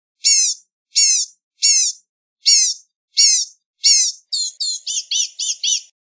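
Blue-gray gnatcatcher singing: six high, down-slurred notes spaced evenly, then about four seconds in a quicker run of about seven shorter notes.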